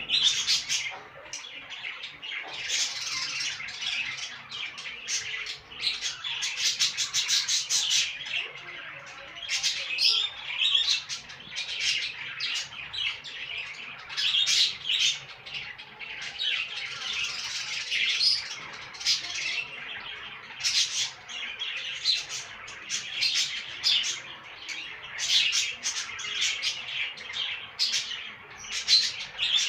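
Budgerigars chattering in a cage: a continuous, busy stream of high chirps and squawks, with a quick run of clicking notes about seven seconds in.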